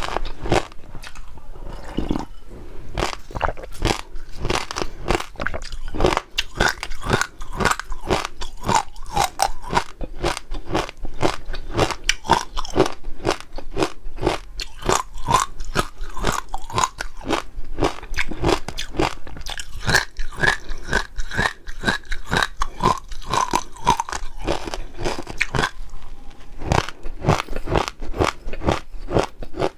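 Close-miked chewing and biting of chewy jelly pearls with a crunchy water-chestnut filling: a dense, rapid run of crunches and clicks.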